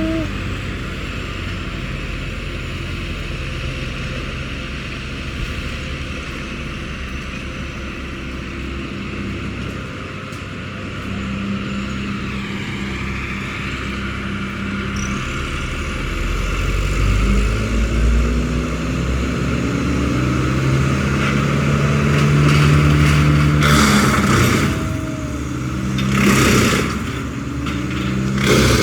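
An engine running steadily, then changing pitch as it is revved, with several loud rushing bursts in the last few seconds.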